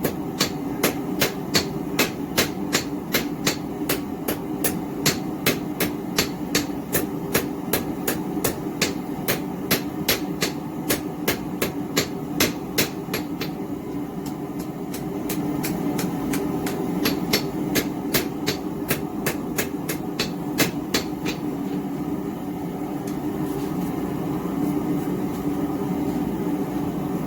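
Hand-hammer blows on hot 1/4-inch round steel stock, flattening and drawing it out, at about two and a half blows a second. The blows ease off briefly midway and stop about 21 seconds in. Under them runs the steady roar of a small gas forge.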